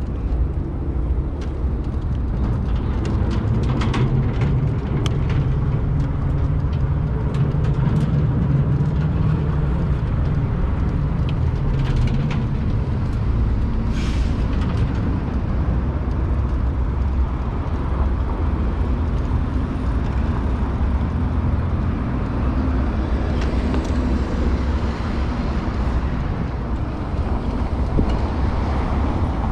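Steady low rumble of vehicle and wind noise, with scattered clicks and knocks in the first half.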